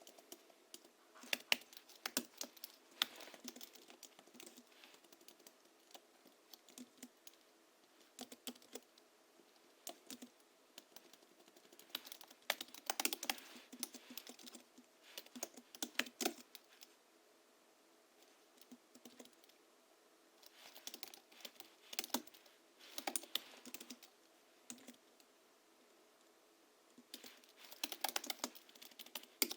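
Typing on a Hansung GHL-5X keyboard tuned with lubricated springs (Krytox 103 and 107), 50 g rubber domes and a sound-absorbing sponge in the case. Keystrokes come in quick bursts broken by short pauses.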